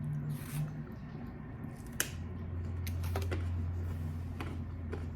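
Chewing chicken wings: sharp, irregular crunches and wet clicks, about half a dozen, the loudest about two seconds in, over a steady low hum.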